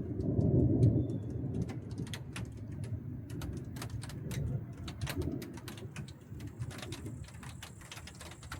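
Distant thunder rumbling, loudest in the first second or so and then dying away. Scattered sharp taps of raindrops run throughout.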